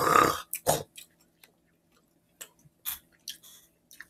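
Close mouth sounds of people eating burgers: scattered short clicks of chewing with the mouth open, after a brief loud breathy noise at the very start.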